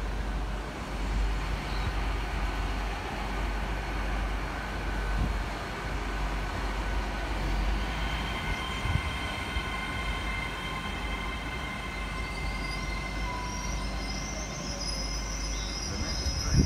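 GWR Intercity Express train (Class 802) moving through the station, its wheels rumbling on the rails. About halfway through, a high, steady squeal of several pitches sets in and keeps on, joined near the end by a higher-pitched squeal.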